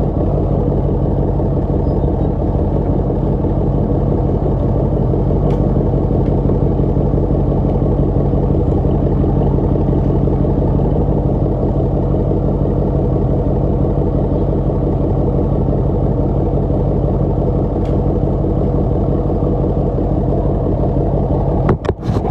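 Car engine running steadily right beside the phone, a deep, even drone. Near the end there are a few sharp knocks and the level drops.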